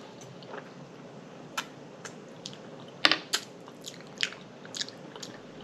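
A person chewing and lip-smacking on food: scattered sharp wet mouth clicks over a low hiss, the loudest two about three seconds in.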